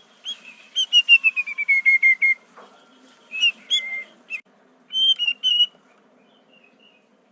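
Sooty-headed bulbul (kutilang) singing: a fast run of about a dozen clear whistled notes falling in pitch, then two shorter whistled phrases. It goes quiet about six seconds in.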